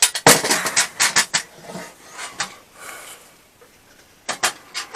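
Sharp knocks and clicks of parts being handled and fitted into place: a quick run of them at the start, a few fainter ones in the middle, and two more near the end.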